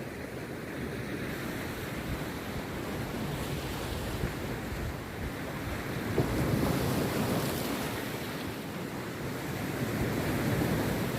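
Rough sea surf breaking and washing on a beach, a steady rush that swells louder about six seconds in and again near the end, with wind noise on the microphone.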